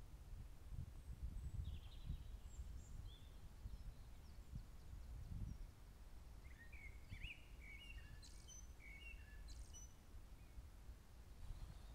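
Songbirds chirping, a few short calls about two seconds in and a busier run of quick chirps in the second half, over a low rumble of wind on the microphone.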